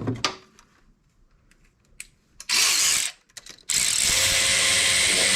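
Cordless power tool driving down an ignition coil pack hold-down bolt. It runs in a short half-second burst about two and a half seconds in, then starts again near the end and keeps running steadily.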